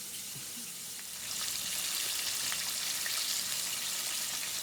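Chicken frying in hot oil, the first batch going into the pan: a steady sizzle that grows louder about a second in.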